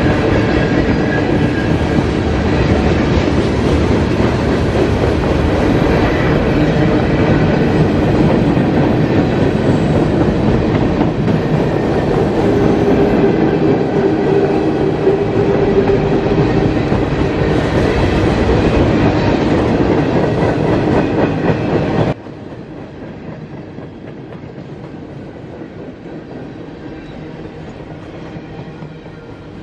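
CSX mixed freight train cars rolling past at close range: a loud, steady rumble and rattle of wheels on the rails. About 22 seconds in, the level drops suddenly and the train is heard more faintly.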